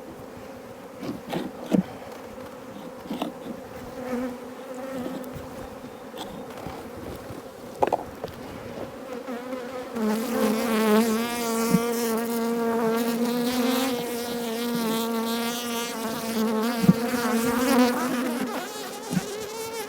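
Honeybees buzzing around an opened hive, a steady hum that swells louder about halfway through; the colony is agitated by the inspection, described as getting pretty noisy. A few sharp clicks sound over it.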